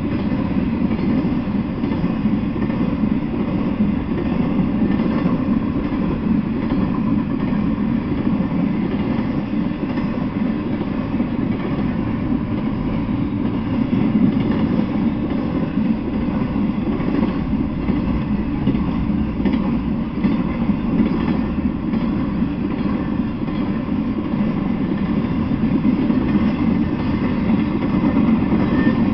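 Intermodal freight train's container-laden well cars rolling past: a steady noise of steel wheels running on the rails.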